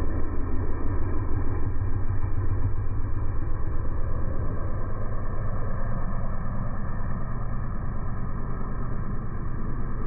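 Vehicle engine idling steadily with a low, pulsing rumble, sounding muffled.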